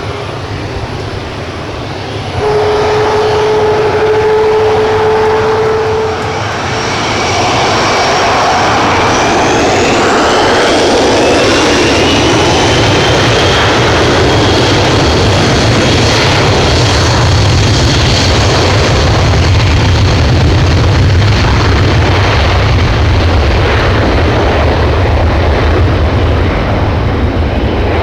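Four CFM56 (F108) turbofan engines of a Boeing KC-135R Stratotanker, loud throughout. The sound steps up a couple of seconds in with a steady tone, then carries a whine that rises in pitch about ten seconds in, over a heavy low rumble that grows and holds.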